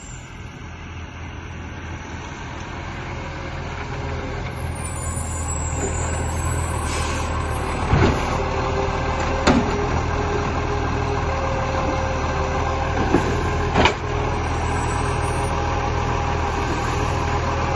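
Garbage truck engine running, growing louder over the first several seconds, with four sharp bangs in the second half.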